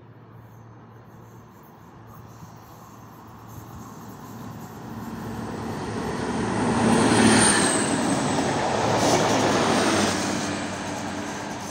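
Passenger train approaching and passing close by on non-stop run, its wheels rumbling on the rails, growing to loudest about seven seconds in with a brief high wheel squeal, then easing as the cars go by.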